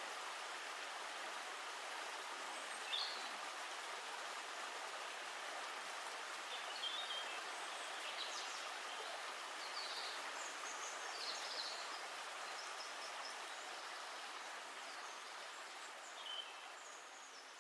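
Steady flowing water, with short bird chirps scattered over it, fading out slowly near the end.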